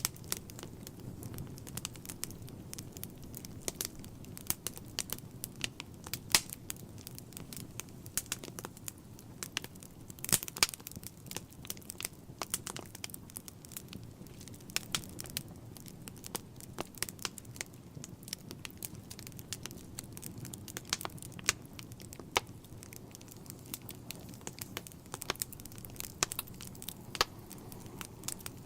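Wood fire burning in a fireplace: irregular sharp crackles and pops over a low steady rumble of flames.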